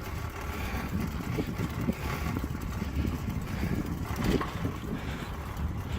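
Wind buffeting the microphone of a phone carried on a moving bicycle, a low, uneven rumble with road and bike noise beneath it.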